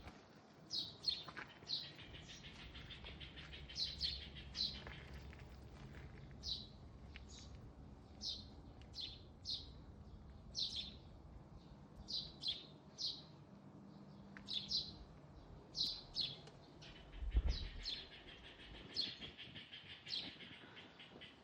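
Small birds chirping over and over: short, sharp, high calls that drop in pitch, about one or two a second, over a low steady hum. A single low thud comes about 17 seconds in.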